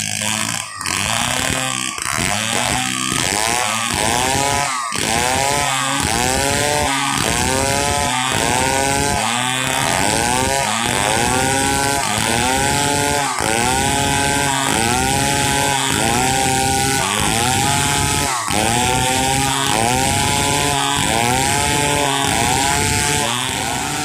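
Large two-stroke chainsaw, a Stihl 070, cutting through a log under load. Its engine pitch rises and sags in a steady rhythm about once a second as the chain bites and frees in the wood.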